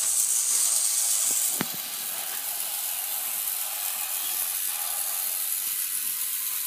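Battery-powered toy train running on its track, a steady high whirring hiss from its motor and wheels. A sharp click comes about a second and a half in, after which the hiss carries on more quietly.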